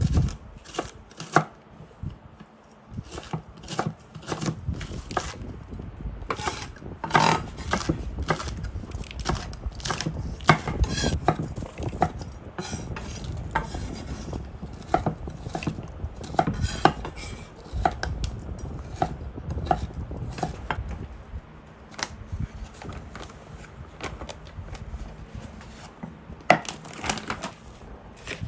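Kitchen prep: a knife knocking on a cutting board in irregular strokes, mixed with clinks of dishes and utensils.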